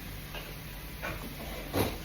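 A few short knocks of tableware, the loudest near the end, over a steady low hum.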